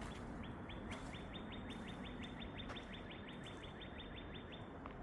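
A small bird calling a rapid, evenly paced trill of short high notes, about six a second, that lasts about four seconds and stops shortly before the end.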